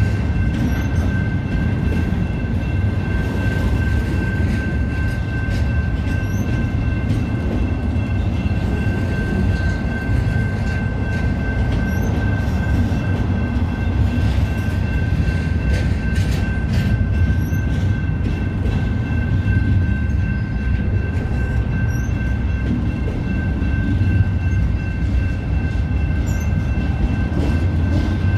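BNSF intermodal freight train rolling past: a steady low rumble of passing cars with a constant high-pitched whine over it and scattered light clicks.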